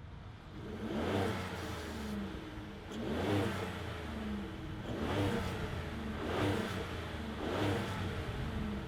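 Ford F-150 3.5L EcoBoost twin-turbo V6 exhaust as the engine is revved with no load: about five rising revs a second or two apart, dropping back toward idle between them.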